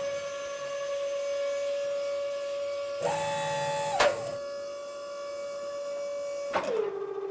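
A steady, buzzy electronic tone held at one pitch. A higher tone joins it briefly about three seconds in, a sharp click comes at about four seconds, and the tone slides down in pitch near the end.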